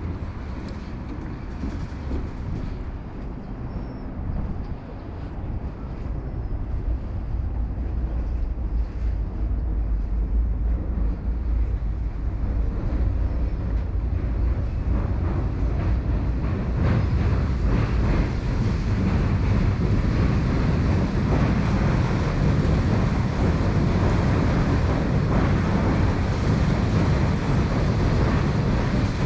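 Train crossing the railway bridge right beside the walkway, rumbling and clattering and growing louder over the first half, then running loud and steady.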